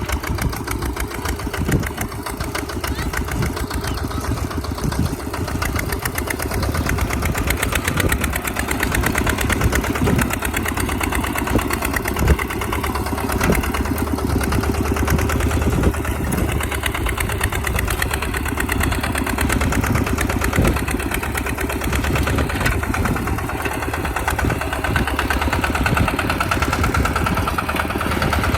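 Tractor engine running steadily under load while plowing, with occasional short, sharp knocks.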